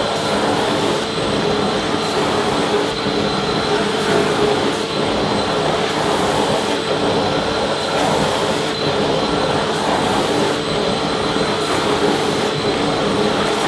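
Vacuum cleaner running steadily: a continuous rush of air with a steady motor whine held at one pitch, no change in level.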